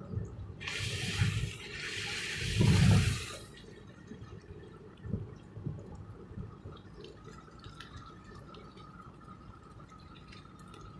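Rain-swollen water rushing, loud for a few seconds and then dropping away to a quieter trickle with scattered drips.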